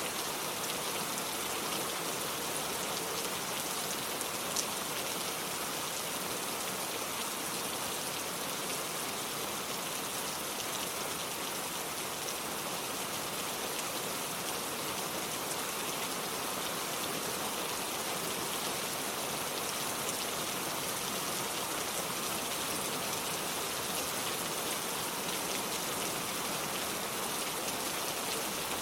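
Steady rainfall: an even hiss of rain with fine pattering drops, holding a constant level throughout.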